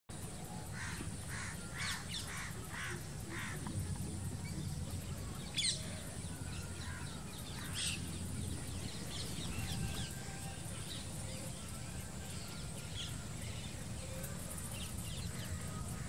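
Birds calling: a run of about six evenly spaced calls in the first few seconds, then two sharp downward chirps and scattered fainter calls. A steady high whine and a low rumble run underneath.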